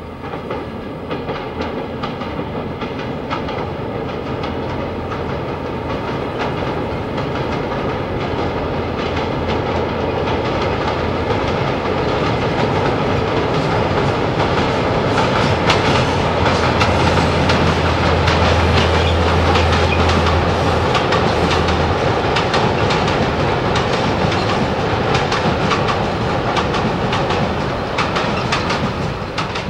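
Freight train hauled by an Adtranz locomotive crossing a steel truss viaduct. The locomotive's low drone swells as it draws near and fades a little after the middle, while the wagons' wheels clatter quickly over the rail joints, growing loud through the second half.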